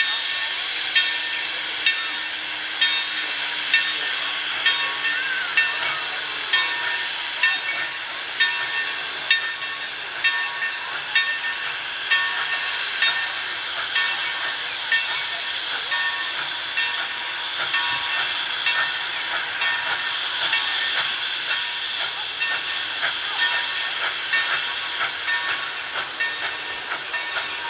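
Steam locomotive hissing steadily, with short regular clicks about once a second through the first half.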